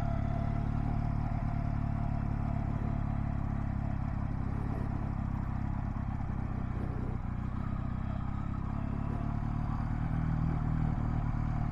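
Honda Rebel 250's air-cooled parallel-twin engine running steadily at low speed as the motorcycle rides slow figure eights, getting slightly louder near the end.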